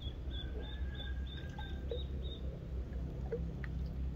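A small bird peeping: a rapid run of short, high notes, about four a second, that stops about two and a half seconds in, with a faint steady whistle beneath it for a while. A low rumble of wind or handling runs under it all.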